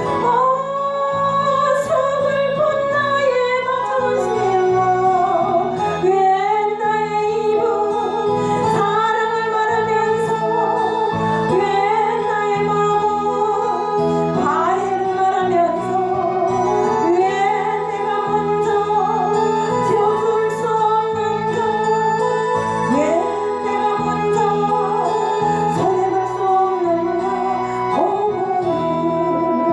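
A woman singing a Christian praise song with instrumental accompaniment, her voice holding long notes with vibrato.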